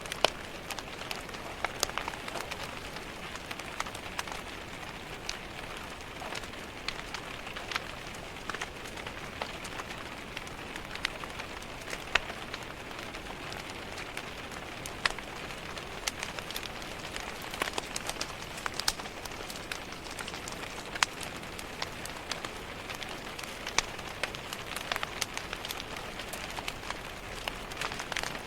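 Steady rain tapping on a window, mixed with a crackling wood fire: many scattered sharp pops and snaps over the even hiss of the rain.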